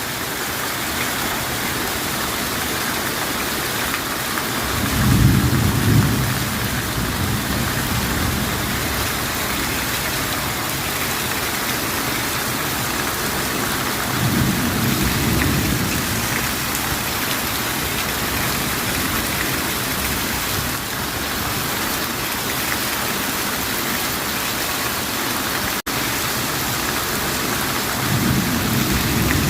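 Steady rain falling, with low thunder rumbling three times: about five seconds in, in the middle, and near the end.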